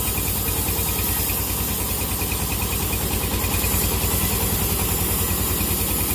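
Sawmill engine running steadily, with a fast even low pulse and no change in pace.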